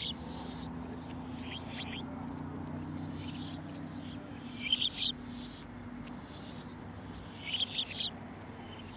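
Bird calls: two short bursts of quick, high chirps, one about halfway through and one near the end, with fainter calls near the start. A low steady hum runs underneath.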